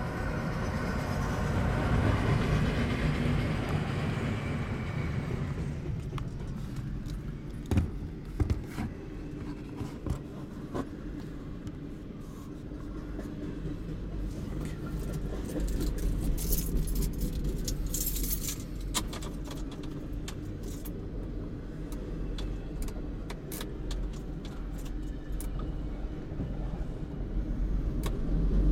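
Double-stack intermodal freight train rolling past, a steady low rumble of wheels on rail. It is heard in the open for the first six seconds or so, then muffled from inside a car. A few sharp knocks come about eight to eleven seconds in, and a cluster of high clicks comes a little past the middle.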